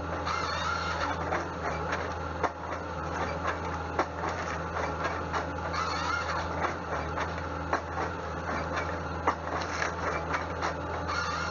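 Sawmill wood-processing machinery running: a steady low hum with irregular clatter and knocks, and brief higher-pitched swells a few times.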